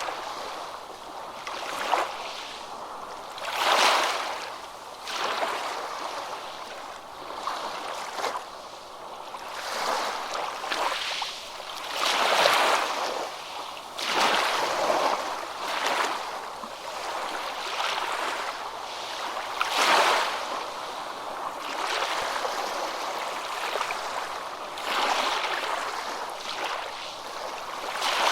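Moving water: a steady rushing wash that swells and falls every second or two, like small waves lapping or a splashing stream.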